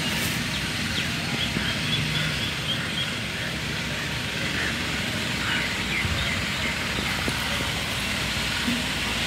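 Outdoor ambience: a steady background hiss and rumble, with a bird chirping a quick run of about seven short high notes around two seconds in and a few more chirps near the middle.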